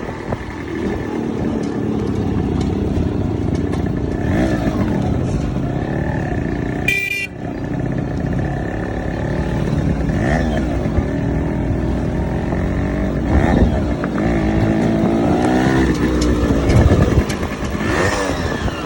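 Modified Yamaha RX two-stroke motorcycle engine running on the road, its pitch rising and falling again and again as it accelerates and shifts.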